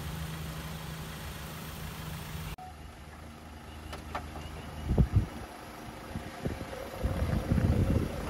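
Land Rover Defender 110 engine running slowly as the truck crawls through a deep rut, with a steady hum that changes abruptly about two and a half seconds in. A couple of low thumps about five seconds in, and louder low rumbling near the end.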